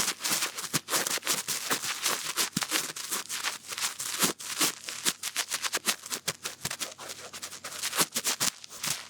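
Cotton bud rubbing and scratching in an ear, close up to the microphone for ASMR: a dense, irregular run of crackly scrapes and sharp clicks.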